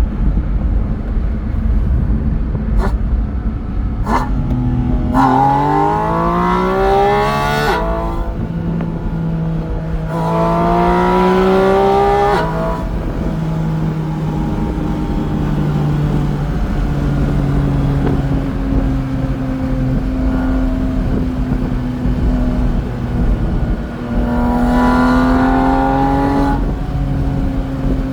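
Porsche 718 Spyder RS's flat-six engine pulling hard three times, its pitch sweeping steeply up through the revs and dropping suddenly at each gear change. Between the pulls it runs more steadily, over a constant low road rumble.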